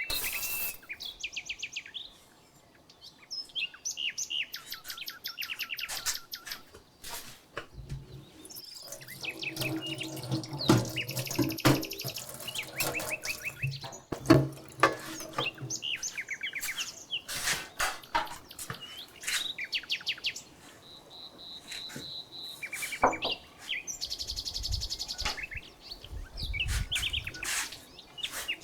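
Wild songbirds singing repeated quick trills and chirps, with scattered sharp knocks and clicks from cooking work and a low steady hum for several seconds in the middle.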